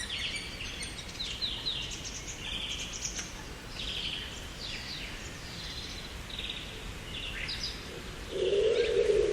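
Small songbirds chirping and singing, many short high phrases one after another. Near the end a louder, lower, steady sound comes in under them.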